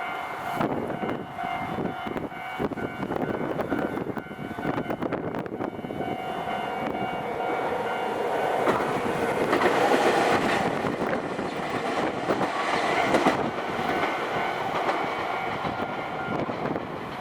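A Japanese level-crossing warning bell rings steadily while a Nankai Railway train runs over the crossing, its wheels clattering over the rail joints. The train noise is loudest about ten seconds in, and the bell stops near the end.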